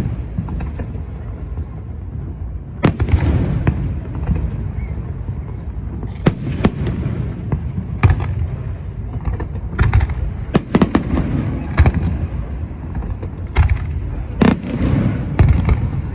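Aerial fireworks display: a rapid, irregular series of sharp bangs and crackles, several shells going off every few seconds, over a continuous low rumble of reports echoing.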